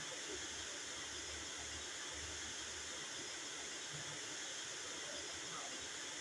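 Steady rain: an even hiss with no breaks.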